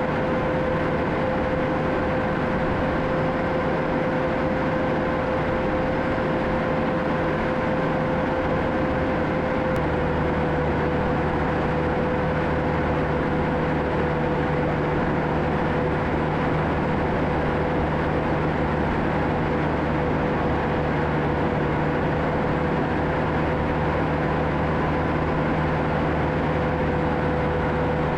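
John Deere 650K crawler dozer's diesel engine running steadily under load, with a constant whine over the engine noise; the pitch shifts slightly down about ten seconds in.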